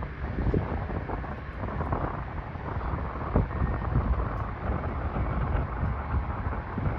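Wind buffeting the microphone: a steady low rumble of noise that rises and falls in gusts.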